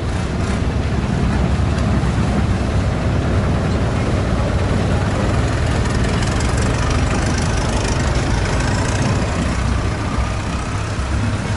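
Long-tail boat engine running steadily under way, a loud low drone with a constant rush above it.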